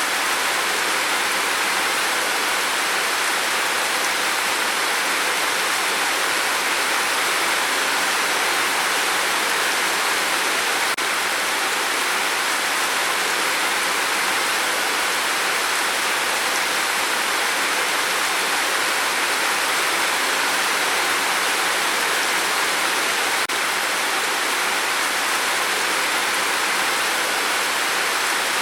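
Steady, heavy rain on a tin roof: a dense, even hiss of drops with no letup.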